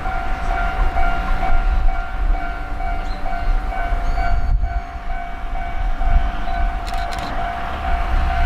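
Ichibata Electric Railway 7000 series railcar at a station, a steady high tone held throughout over a low rumble, with a few sharp clicks about seven seconds in.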